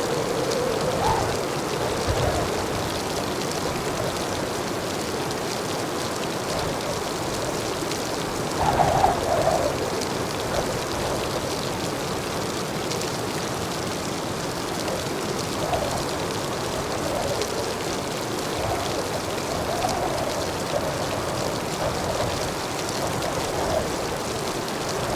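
Heavy rain falling steadily, with a louder surge of rain about nine seconds in.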